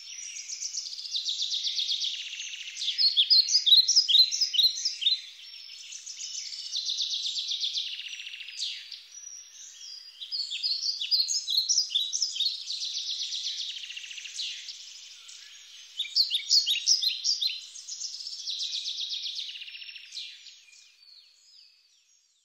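Birdsong: rapid high chirps alternating with buzzy trills, the phrases coming every few seconds and fading out near the end.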